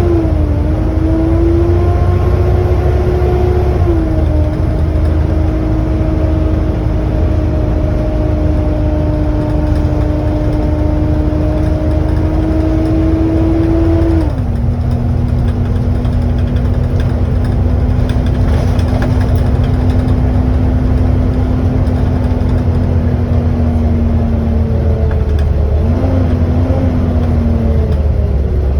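Volvo B7TL double-decker bus heard from on board, running with its high-pitched "hoover" whine over a low engine rumble. The whine holds steady, drops a step in pitch twice, and wavers briefly near the end.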